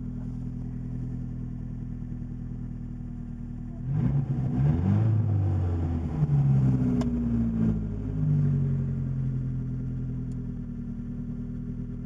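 1980 Porsche 924 Turbo's turbocharged 2.0-litre four-cylinder idling, revved up in a few blips about four seconds in, then settling back to a steady idle.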